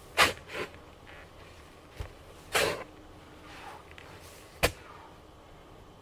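Irregular work noises: a few sharp knocks and a couple of longer scraping strokes, spaced a second or two apart.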